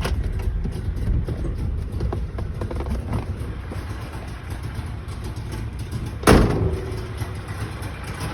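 1961 DKW 750 Junior's three-cylinder two-stroke engine idling in neutral, still cold just after a cold start without choke. A single loud clunk with a short ring about six seconds in is the loudest sound.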